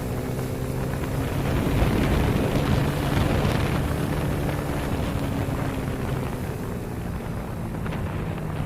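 Motorcycle engine running steadily on the move, with wind rushing over the microphone. A broad rush of noise swells from about a second and a half in and fades after a few seconds.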